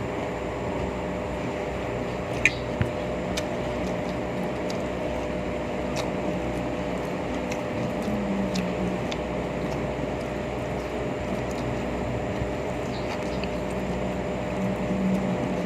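A steady low hum and rumble with a faint constant tone and scattered light clicks, and two sharp knocks close together about two and a half seconds in.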